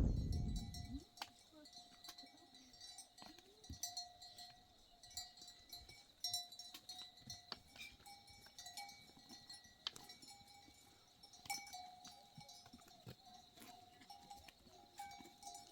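Livestock bells ringing faintly and unevenly, many small scattered strikes over a steady ring, as the herd's animals move. A low rumble dies away about a second in.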